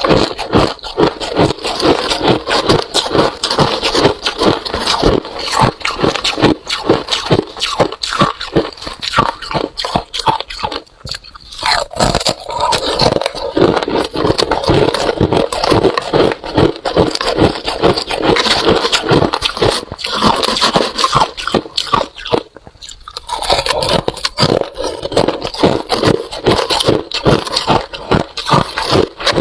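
Close-up crunching and chewing of freezer frost (white ice), a dense run of crisp crackling bites with brief pauses about 11 and 22 seconds in.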